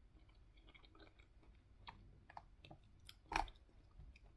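A person chewing soft, juicy mango and pineapple chunks, with small wet mouth clicks. A sharper click stands out about three and a half seconds in.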